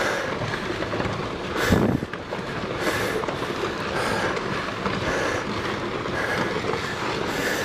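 Rockfall down a volcano slope: a continuous rumble of tumbling rocks with irregular sharp cracks and clatters, one loud crack nearly two seconds in.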